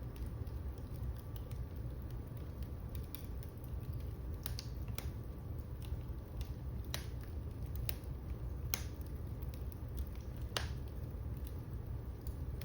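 Wood fire burning, with a low steady rumble of flames and scattered sharp crackles and pops at irregular intervals.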